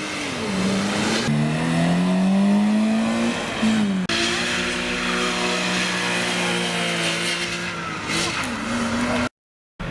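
High-performance sports car engine accelerating hard, its pitch climbing and then dropping sharply at gear changes before settling into a steadier drone. The sound cuts out completely for about half a second near the end.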